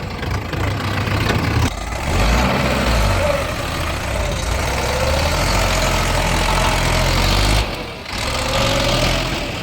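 Heavy diesel engine running steadily at a low, even pitch, with a fainter tone rising and falling above it. The sound dips briefly about eight seconds in.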